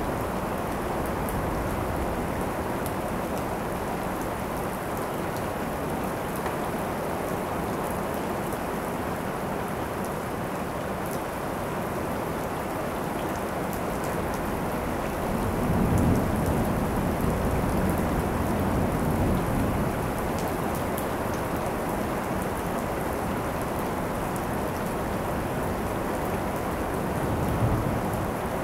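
Steady heavy rain falling, with a roll of thunder rumbling low from about halfway through for several seconds, and a shorter rumble near the end.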